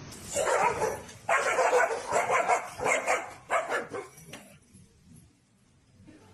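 A dog barking in a series of short calls over about four seconds.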